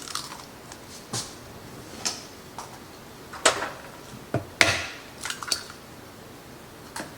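Two eggs being cracked on a mixing bowl: a series of sharp taps and knocks, the loudest about halfway through.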